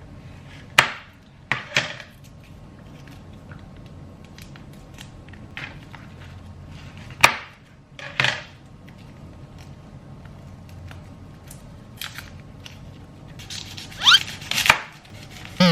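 A kitchen knife knocking on a cutting board in scattered sharp strokes, the loudest about 7 seconds in and a quick cluster near the end, over a faint steady low hum.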